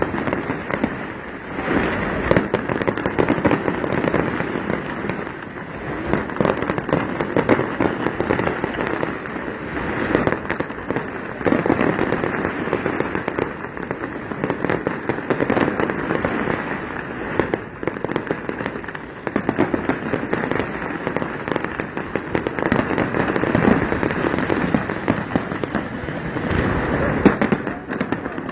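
Fireworks display: aerial shells bursting in a continuous barrage, with many overlapping bangs and crackling and no pause.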